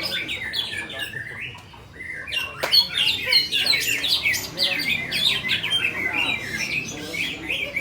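Several caged greater green leafbirds (cucak ijo) singing at once in a dense, overlapping tangle of quick chirps and trills. It dips briefly a little under two seconds in, then picks up again.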